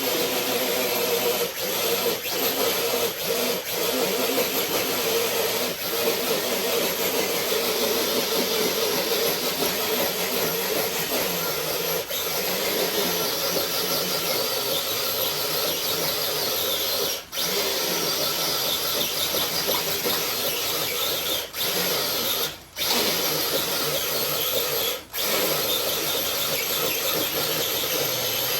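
Electric motor and geared drivetrain of an RC crawler truck whining steadily under load as it pulls a weight, cutting out briefly a few times in the second half.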